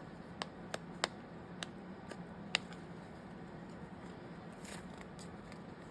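Light clicks and taps of small craft pieces and paper being handled on a desk, about five in the first two and a half seconds, over a faint steady room hum.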